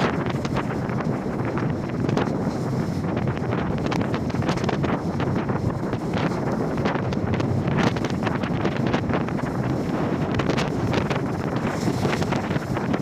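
Strong wind buffeting the microphone over a rough sea, with waves breaking and splashing throughout.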